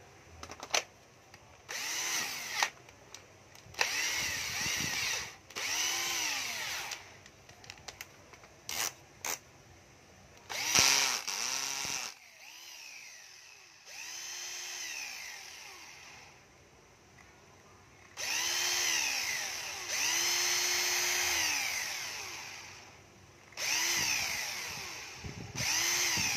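A 12V cordless drill-driver's motor is run in about ten short trigger pulls. Each pull spins up quickly, holds a steady whine and winds down when released, and a few short clicks come in the gaps between pulls.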